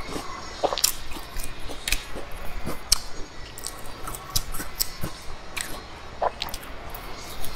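Close-miked biting and chewing of a flaky sesame-rimmed pastry: irregular sharp mouth clicks, about two a second.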